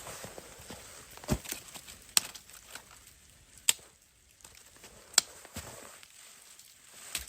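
A series of sharp knocks, about five of them, the middle three evenly spaced about a second and a half apart.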